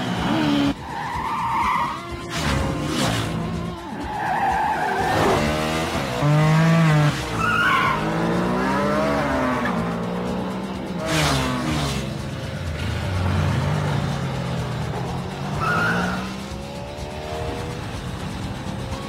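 Movie chase soundtrack of Ducati 916 sport-bike engines revving hard, their pitch sweeping up and down as they speed past, with tyre squeals and whooshing pass-bys mixed in.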